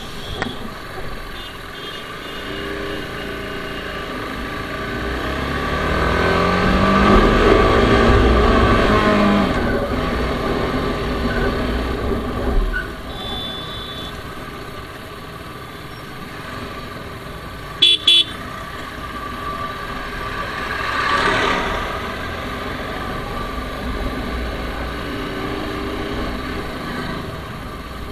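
TVS Apache RR310's single-cylinder engine running on the move, the revs rising and falling and loudest about seven to nine seconds in. A horn beeps twice briefly about eighteen seconds in.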